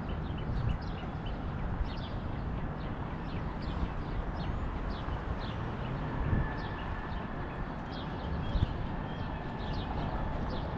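Small birds chirping over and over in short, sharp, falling notes, above a steady low rumble of wind and outdoor noise.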